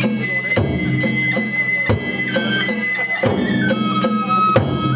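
Danjiri festival music: a high Japanese transverse flute holds long notes, stepping down in pitch toward the end, over drum and gong strikes about every two-thirds of a second.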